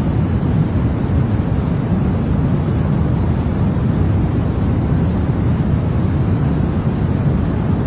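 Continuous white noise for baby sleep: a steady, unchanging rush of noise, weighted toward the low end so it sounds deep rather than hissy.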